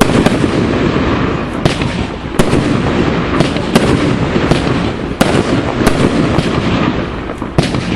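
Aerial fireworks display: a rapid string of loud shell bangs, about ten in eight seconds, over a continuous rumble and crackle of bursts.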